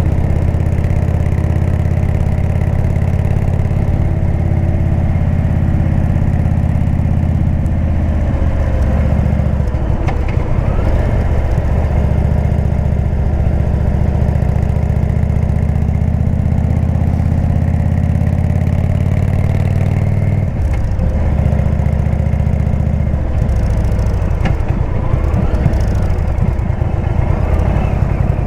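Indian V-twin motorcycle engine running through a Jekill & Hyde exhaust, a steady note that breaks up and changes pitch about eight seconds in and again about twenty seconds in.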